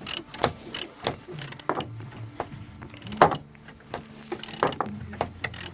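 Ratchet wrench clicking in short, irregular runs while loosening the fasteners of a car's air filter housing.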